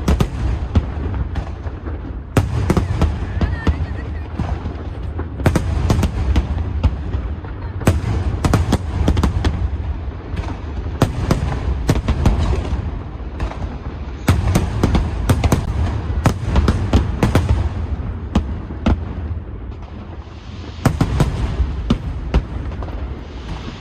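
Aerial fireworks bursting in rapid, continuous volleys: many sharp cracks over a deep rolling rumble. There is a brief lull about twenty seconds in, then another volley.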